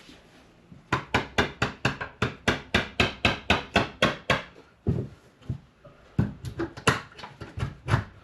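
Hammer blows, a fast run of about four strikes a second, then a short pause and a few more uneven strikes near the end. This is typical of knocking loose a metal strip or trim to open up a dryer vent enclosure.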